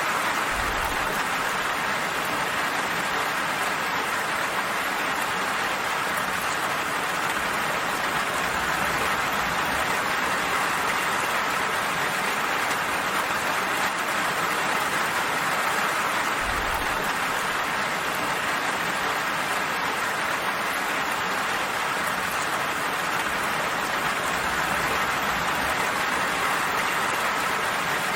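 Steady rain falling: an even, unbroken hiss with no pauses, with a few faint low thuds.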